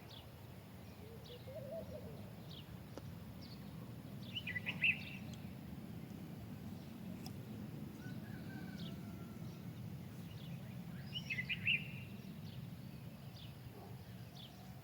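A songbird singing a short burst of quick notes twice, about four seconds in and again near the end, with scattered single chirps between, over a steady low background rumble.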